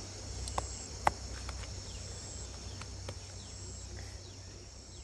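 Crickets and other insects calling steadily, with one high call repeating about every second and a half. Two sharp clicks about half a second and a second in.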